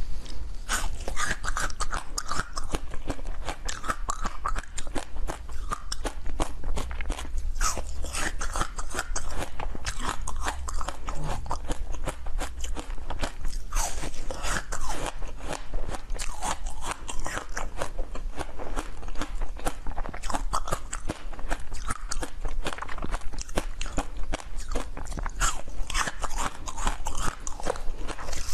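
A person biting and chewing crunchy food, with dense, irregular crunching throughout.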